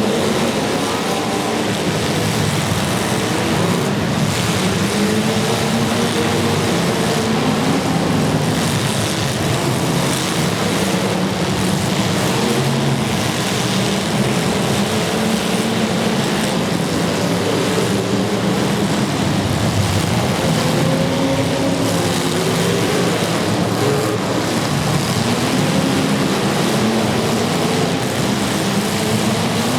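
Several demolition derby cars' engines running and revving at once, their pitch rising and falling, loud and continuous.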